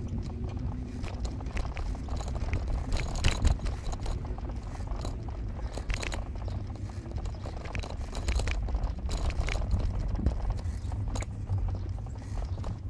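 Low, steady rumble of a vehicle on the move, with irregular clicks, knocks and rattles over it, the loudest knock about three and a half seconds in.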